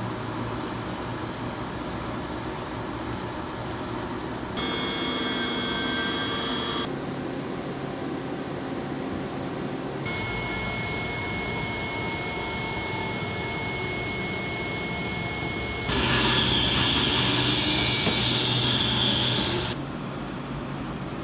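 CNC machine running in a series of short clips that cut from one to the next, a steady machine noise with a thin high whine in some clips. A louder hissing stretch near the end is likely active cutting or coolant spray.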